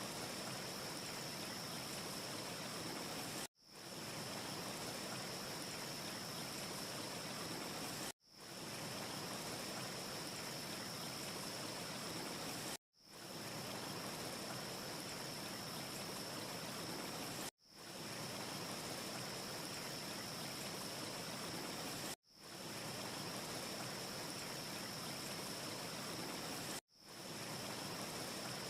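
Steady, even hiss of a looped wind ambience track, with a thin high whistle held on one note above it and no audible fire crackle. It drops to silence six times, about every four and a half seconds, and fades back in each time.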